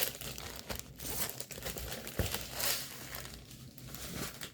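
Plastic packaging crinkling and rustling as it is handled, in irregular soft bursts.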